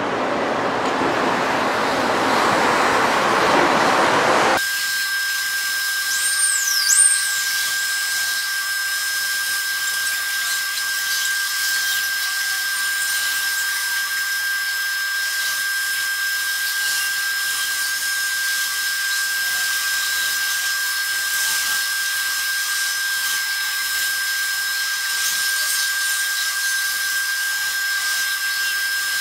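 Rushing, even running noise of a guideway train that cuts off abruptly about four and a half seconds in. It is replaced by a steady high-pitched electric whine over a hiss, with a short swooping chirp a couple of seconds after the cut.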